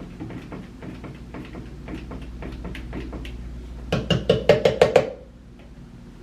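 Small clicks and knocks of objects being handled, then a quick run of about six sharp, ringing taps about four seconds in that stop suddenly.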